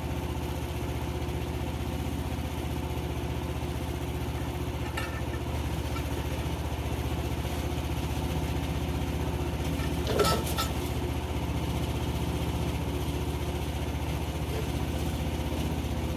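Engine idling steadily, with a single brief knock about ten seconds in.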